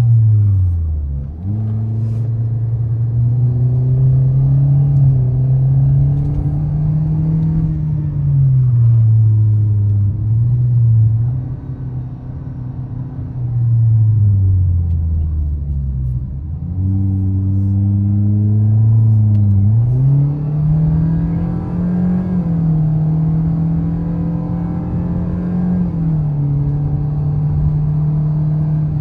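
Toyota Vios's four-cylinder engine under hard driving, its pitch climbing and falling smoothly as it accelerates and lifts off. It falls to a low drone twice, about a second and a half in and again around sixteen seconds in, then climbs back up.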